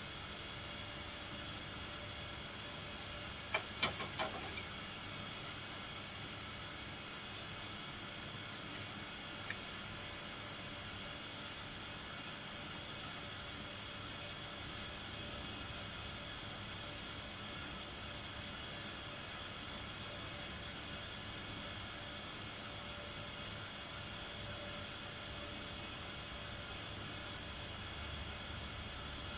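Steady hiss, with a short cluster of sharp knocks about four seconds in.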